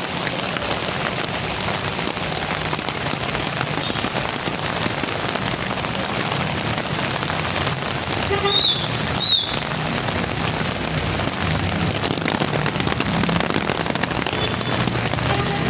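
Heavy rain falling steadily on the ground and roofs, a dense even hiss. About halfway through, two short pitched chirps under a second apart cut through the rain as the loudest sounds.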